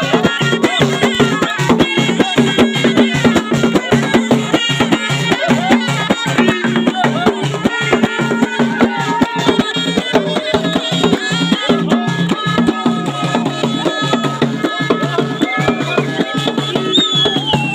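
Traditional Moroccan folk music led by a ghaita, a double-reed shawm, playing a continuous ornamented melody over a steady drum beat.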